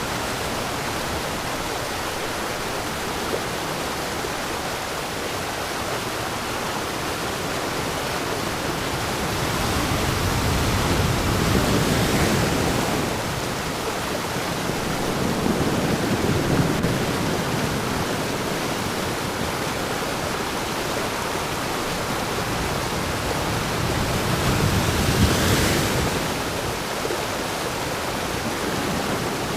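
Waterfall: a steady rush of falling water, swelling louder three times.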